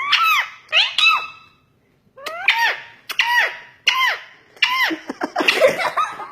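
Pet parrot giving a run of short, squeaky calls, each rising then falling in pitch, with a pause about two seconds in.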